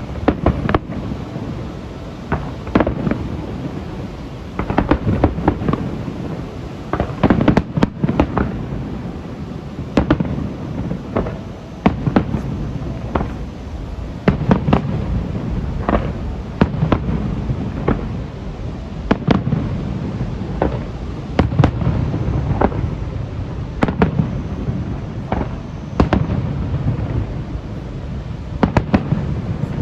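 Fireworks show: aerial shells bursting in quick irregular succession, sharp bangs and crackles over a continuous echoing rumble of booms.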